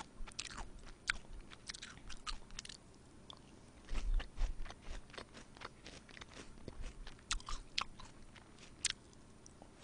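Close-miked chewing of crisp shredded cabbage salad: irregular crunches and mouth clicks, with a louder run of crunching about four seconds in.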